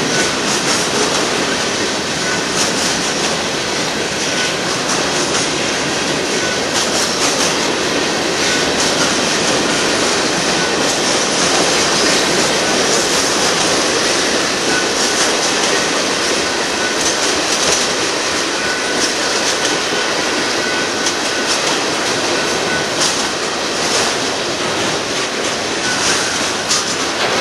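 Freight cars of a Union Pacific manifest train rolling past: steady noise of steel wheels on rail, with irregular wheel clicks over rail joints and a faint high wheel squeal now and then.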